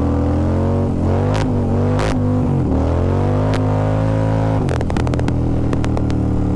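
Indian Challenger's PowerPlus V-twin accelerating hard through the gears, its pitch climbing and dropping at each upshift, the rear tyre breaking loose on the damp road, then holding a steady higher note at speed, with a brief patch of clicking near the end.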